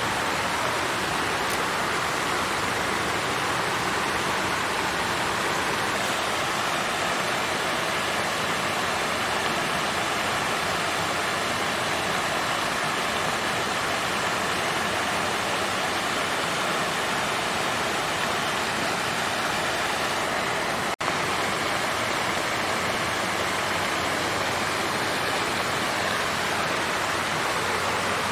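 Water fountain flowing and splashing in a steady rush, with one very brief dropout about three-quarters of the way through.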